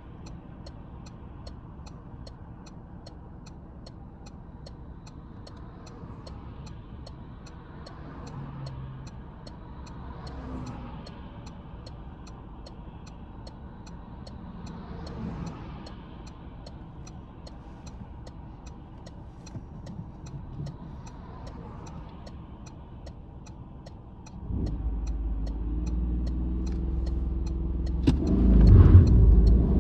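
Citroen C-Elysee's 1.2 EB2 PureTech three-cylinder petrol engine running low and quiet in the cabin, with a steady ticking about twice a second. About 24 seconds in, the engine is put under full throttle and revs up sharply, growing louder still near the end.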